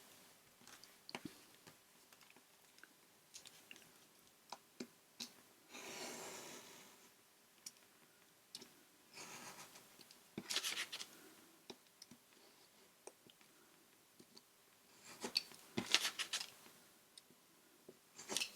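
Craft knife cutting paper: scratchy slicing strokes about six, ten and fifteen seconds in, between light clicks and taps of the knife, ruler and paper being handled.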